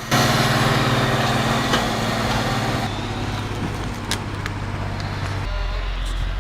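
Ursus 1614 tractor's diesel engine running steadily under heavy load while hauling logs, with the drivetrain pushed to the edge of its transmission and clutch. About five and a half seconds in, the engine note deepens into a stronger low hum.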